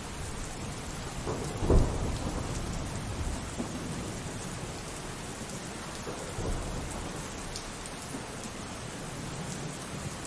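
Steady rainfall with thunder: a loud, low thunderclap about two seconds in that rumbles on, and a smaller rumble a few seconds later.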